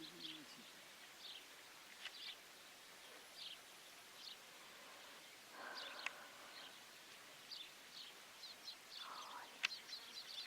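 Faint, short high-pitched bird chirps repeating irregularly, coming a little faster near the end, over a near-silent background, with a soft brief rustle about six seconds in.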